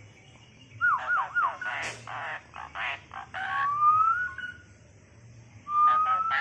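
Asian pied starling (jalak suren) calling: a wavering whistle about a second in, a run of short harsh chattering notes, then long rising whistles near the middle and again near the end.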